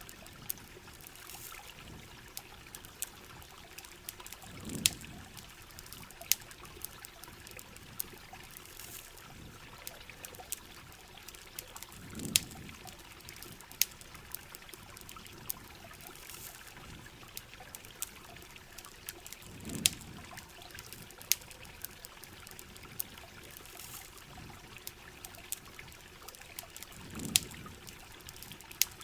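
Heavy rain with a trickle of running water, over a campfire crackling with scattered sharp pops. A short, low thud comes back at even spacing about every seven and a half seconds.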